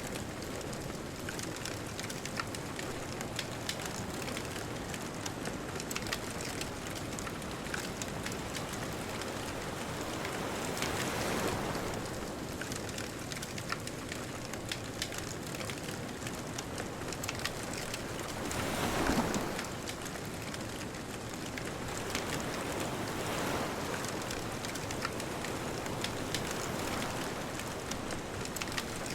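Bonfire crackling with scattered sharp pops over a steady hiss, while ocean waves wash ashore. The waves swell in several times, loudest about two-thirds of the way through.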